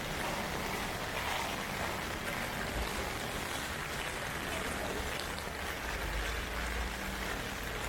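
Heavy typhoon rain falling steadily, an even hiss, with a low rumble swelling briefly near the end.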